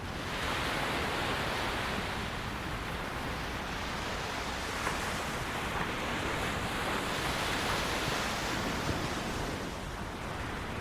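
Ocean surf breaking on a beach: a wave comes in at the start as a sudden swell of hiss, washes steadily for several seconds, then eases off near the end.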